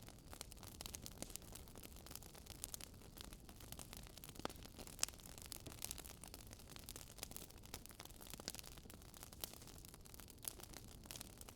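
Faint crackling of burning firewood: irregular sharp snaps and pops over a low, steady hiss.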